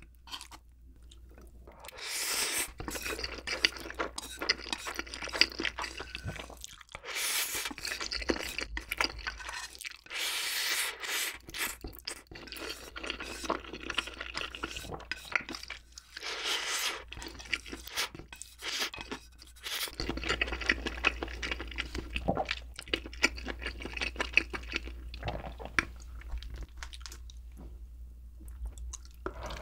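Close-miked chewing with crunching, as Chapagetti black bean noodles and sauced fried chicken are eaten.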